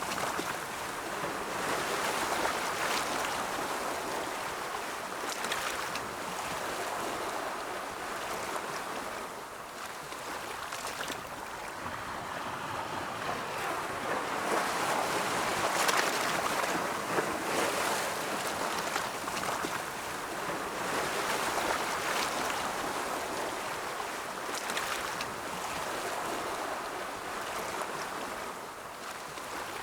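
Ocean surf: waves rolling in and washing over the shore in a continuous hiss that swells and eases, loudest about halfway through.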